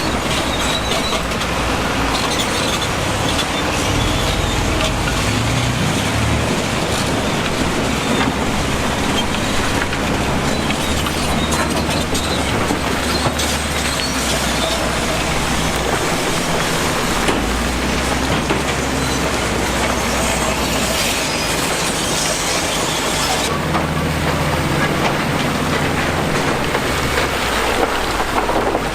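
Heavy diesel construction machinery working, its engine running under a continuous metallic clatter and rattle.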